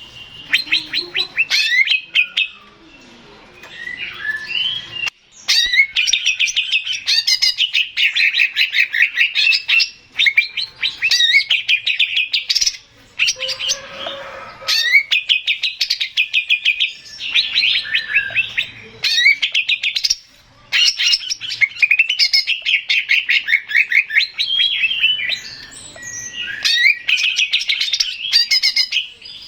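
Male cucak ijo (green leafbird) singing: rapid, high-pitched chattering phrases a few seconds long, broken by short pauses.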